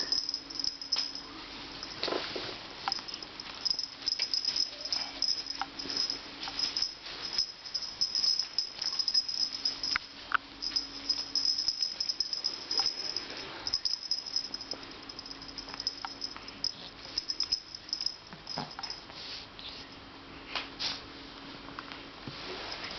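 Small dog chewing and gnawing on a toy dragon: a steady run of irregular small clicks and scrapes.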